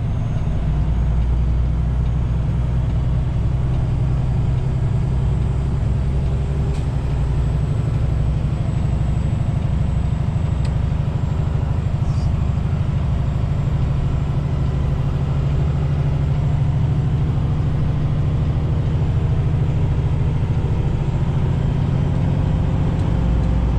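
Heavy-duty wrecker's diesel engine running steadily at low speed under load as it tows a semi tractor on its underlift.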